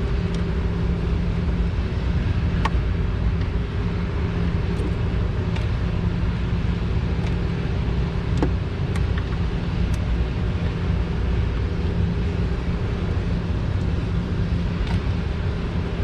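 A steady low hum of an engine running throughout, with a few sharp, light clicks scattered across it from a metal hand tool working at the old valve cover gasket.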